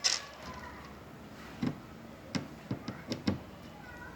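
A few short, light knocks and clicks, spaced irregularly over a few seconds, from a power drill and wood being handled in a workshop.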